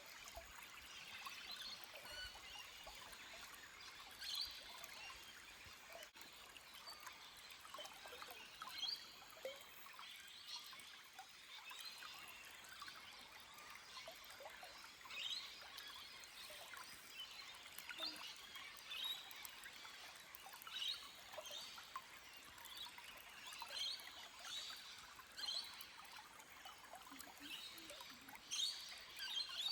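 Small forest stream trickling gently over rocks, with birds chirping in many short calls throughout.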